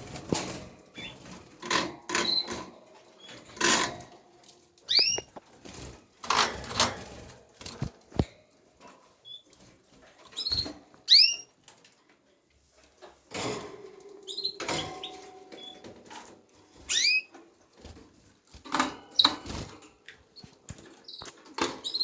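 Canaries giving short, separate chirping calls that sweep up in pitch, scattered among brief sharp clicks and rustles every second or two.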